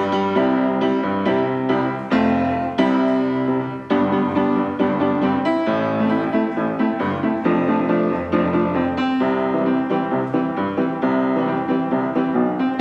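Piano music, several notes sounding together with new notes struck every fraction of a second.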